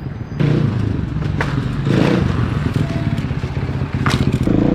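Dirt bike engine running at idle, a steady rapid putter, with a couple of sharp clicks, one about a second and a half in and another near the end.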